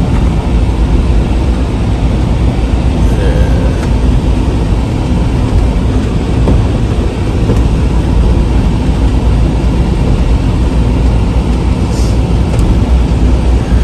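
Semi-truck running down the road, heard inside the cab: a steady, loud low rumble of engine and road noise.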